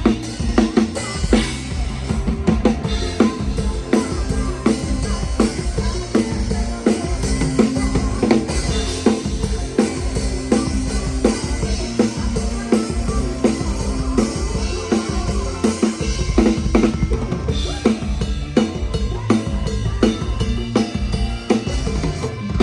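PDP drum kit played live at a steady driving beat, with kick drum, snare and rimshot hits, under the rest of a live band's music.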